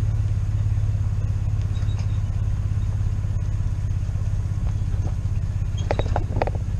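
An engine running steadily at a low, even drone, with a few short clanks about six seconds in.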